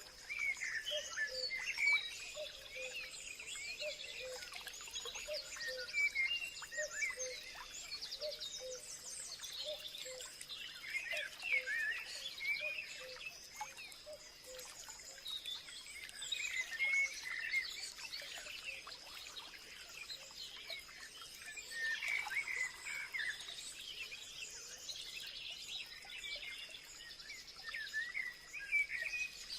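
Several birds chirping and singing at once, many quick high chirps and trills overlapping, over a steady high-pitched drone. A low note repeats at a steady pace over roughly the first third.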